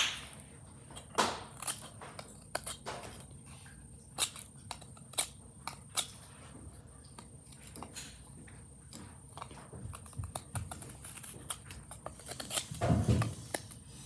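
Folding knife blade shaving a wooden stick in short, irregular strokes, each a brief scrape or click, with a duller bump near the end.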